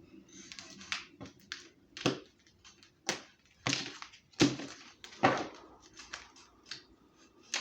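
A series of sharp, irregularly spaced clicks and knocks, about a dozen in all, like small objects being handled.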